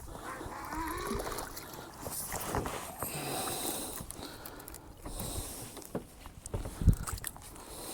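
Water slapping and sloshing against a small fishing boat's hull, with scattered handling knocks and a single heavy thump about seven seconds in.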